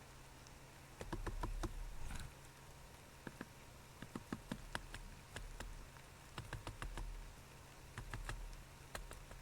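A bird on the camera: irregular sharp taps and clicks against the housing, with low thumps as the camera is jostled, starting about a second in.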